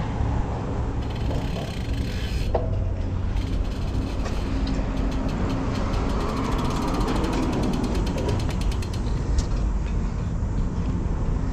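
Road bike's rear freehub ticking rapidly while coasting, a run of evenly spaced clicks in the middle that stops near the end, over steady wind rumble on the microphone.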